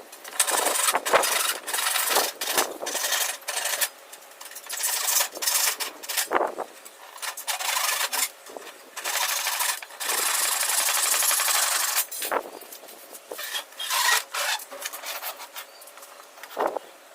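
A hand tool rasping on wood in repeated uneven strokes, with one steadier stroke lasting about two seconds just past the middle.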